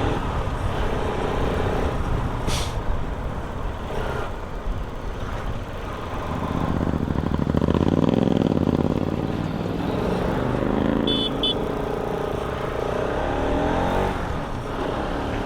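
Motorcycle engine and road noise while riding in traffic; the engine sound swells and falls back a little before the middle. A short, high double beep sounds a little past the middle.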